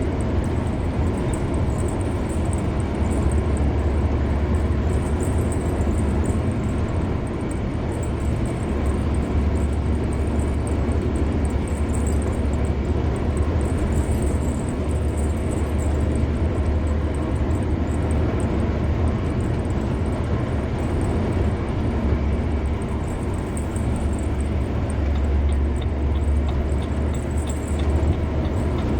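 Car cruising on a highway: steady tyre and wind noise over a deep, even low rumble.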